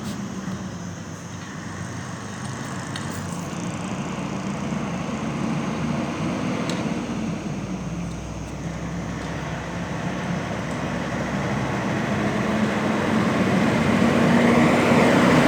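Heavy truck engine and road noise approaching, growing steadily louder.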